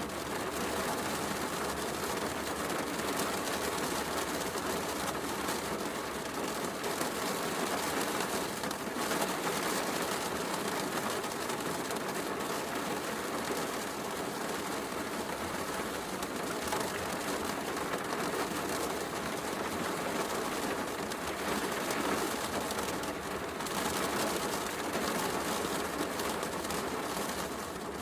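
Heavy rain falling steadily, mixed with a wood fire crackling in a fireplace.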